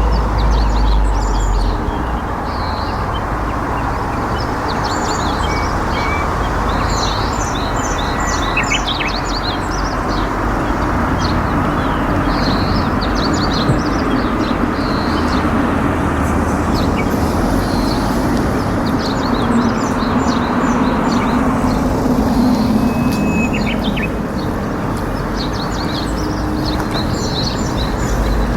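Steady rush of flowing river water, with small birds chirping in short high calls on and off throughout.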